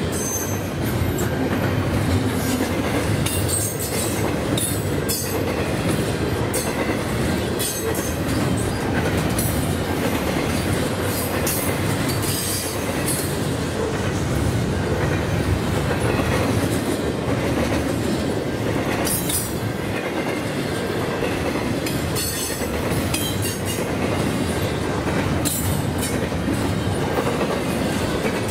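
Double-stack container well cars of a CN freight train rolling past as it gets up to track speed: a steady rumble of steel wheels on rail with clickety-clack, and short high-pitched wheel squeals and sharp clicks now and then.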